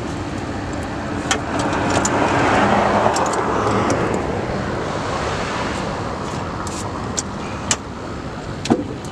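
A car passing on the street: a rushing noise that swells over the first few seconds and fades away, with a few sharp clicks scattered through it.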